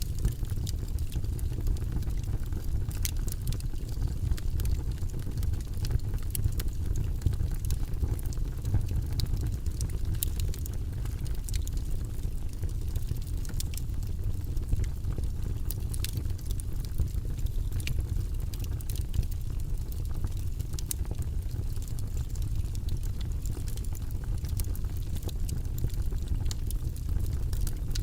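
Log fire burning in a fireplace: a steady low rumble with irregular sharp crackles and pops of burning wood.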